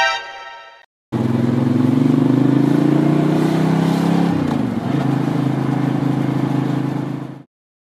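A short bright tone at the very start, then a Ducati 750 Sport's air-cooled L-twin engine pulling, its revs climbing slowly. About four and a half seconds in the revs drop, as at a gear change, and the engine runs steady until it cuts off suddenly near the end.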